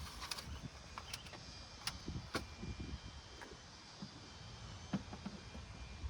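Irregular small clicks, taps and rustles of hands working wire through a rubber wiring grommet, over a low background rumble.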